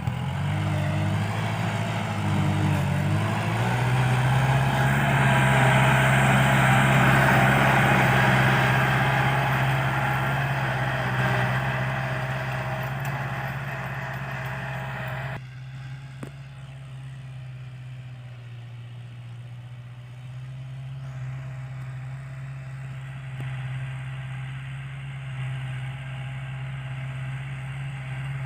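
Kubota L5018 tractor's four-cylinder diesel engine running steadily while plowing. Its note settles a few seconds in, and the overall sound drops suddenly about halfway while the engine keeps running.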